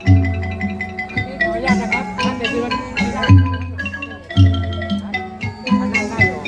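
Northeastern Thai (Isan) folk ensemble music accompanying a dance: a quick struck wooden-xylophone melody, of the pong lang kind, over recurring low drum beats.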